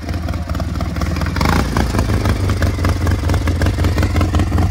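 Small lawn-tractor engine running under load while crawling over rocks, with rapid firing clatter; it grows louder about a second and a half in as the throttle comes up.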